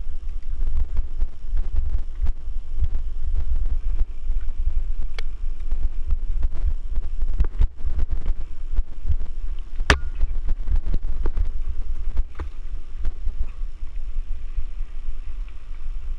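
Wind rumbling on the microphone during a mountain-bike ride, with scattered clicks and knocks from the bike over the trail and one sharp knock about ten seconds in.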